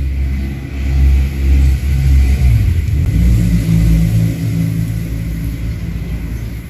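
A motor vehicle engine running close by, a low rumble whose pitch rises about two and a half seconds in as it accelerates, then slowly fading.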